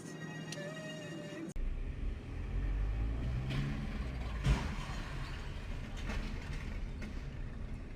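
Road vehicle running with a steady low rumble that starts abruptly about a second and a half in, with one sharp thump near the middle, the loudest sound.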